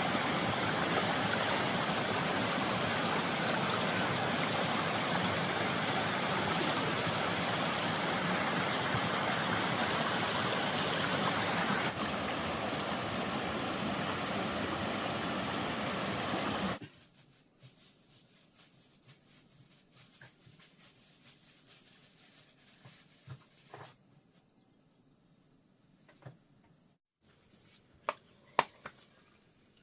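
Loud, steady rush of flowing stream water that stops suddenly about 17 seconds in. A quiet background with a steady high whine follows, with a few sharp clicks near the end.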